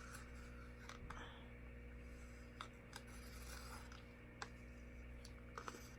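Faint handling sounds of acrylic-pouring work: a few light, scattered clicks and soft rubbing from a plastic paint cup, over a steady low electrical hum.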